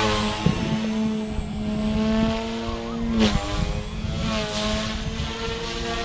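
XK K130 RC 3D helicopter in flight at high headspeed: a steady whine from its motors with an airy whoosh of the rotor blades. About three seconds in the whine dips briefly in pitch with a loud swish of the blades.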